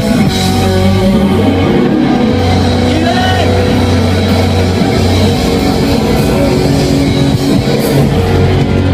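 Rock band playing live, with held bass notes under electric guitar and drums.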